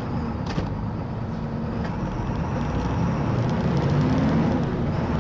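Steady car engine and road noise from a moving vehicle, with a short click about half a second in.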